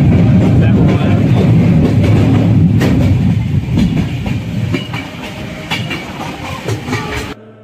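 Passenger train coaches running along the track, with a heavy rumble and rattling and clicks of the wheels over rail joints. The sound fades over the second half and cuts off suddenly just before the end.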